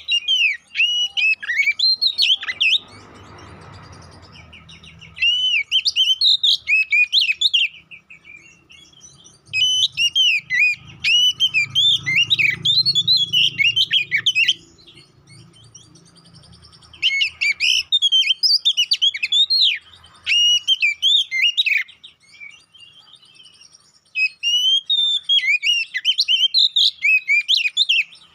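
Oriental magpie-robin (kacer) singing hard in loud bursts of rapid, varied whistles and trills, about five bursts separated by short pauses: the fired-up, aggressive singing of a male ready to fight.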